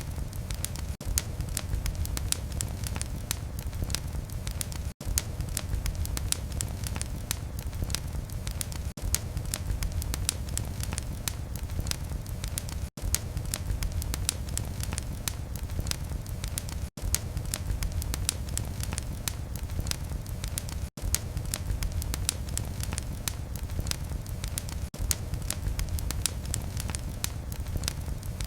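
Fireplace fire crackling: dense quick pops and snaps over a low steady rumble, with a few very brief dropouts in the sound.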